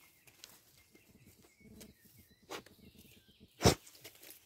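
Faint bird chirps over quiet riverside ambience with scattered small clicks. A single short, loud thump or crack comes about three and a half seconds in.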